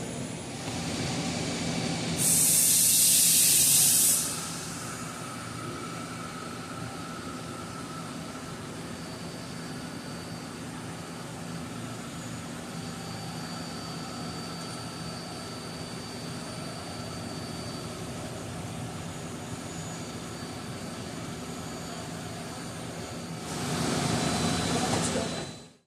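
CNC turning center running under power with a steady mechanical hum and a few faint steady tones. Two loud bursts of hissing spray or air, about two seconds each, come once near the start and again near the end. The sound cuts off sharply at the very end.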